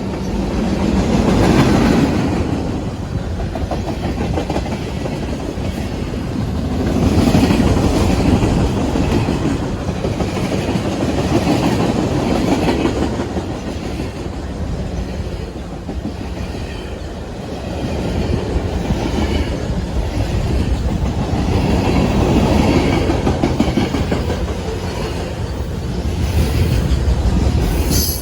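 Union Pacific manifest freight train rolling past: a steady rumble of wheels on rail with clatter, swelling and easing several times as the cars go by.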